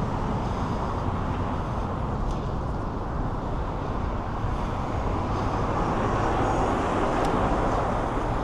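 Steady rush of traffic and wind noise heard from a moving bicycle in city traffic, with no distinct events standing out.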